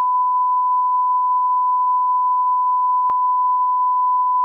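A single steady electronic beep tone, pure and unchanging in pitch, held loud for several seconds. There is one faint click about three seconds in, and the tone cuts off abruptly at the end.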